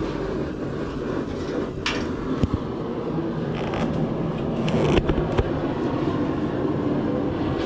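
Blacksmith's forge running steadily while steel heats in it, with a few light knocks.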